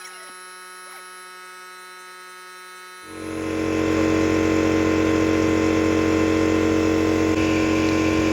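An electric paint sprayer's motor starts about three seconds in and runs steadily, a loud even hum with hiss, as the colour coat goes onto the bike frame.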